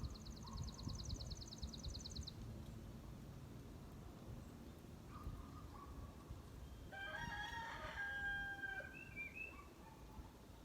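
A rooster crowing once, a pitched call lasting about two seconds, starting about seven seconds in. Before it, in the first two seconds, a small songbird sings a rapid high trill.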